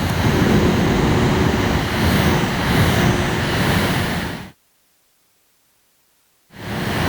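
A mini air conditioner's fan blowing air, a steady rushing noise with a faint steady hum, cut off abruptly about four and a half seconds in and back again near the end.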